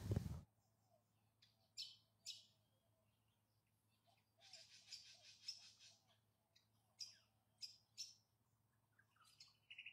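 Near silence with faint, scattered bird chirps: a few single short calls and a brief cluster of chirps about halfway through.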